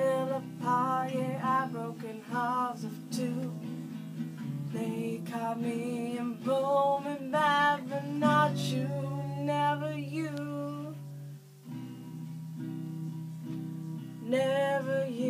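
A woman singing with a strummed acoustic guitar. About eight seconds in she holds one long note, then the guitar plays alone for a few seconds before her voice comes back near the end.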